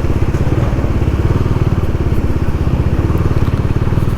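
Motorcycle engine running steadily at cruising speed while riding, a low even pulsing throb.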